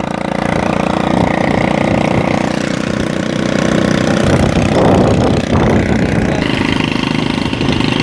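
A vehicle engine idling steadily, with a short burst of other noise about five seconds in.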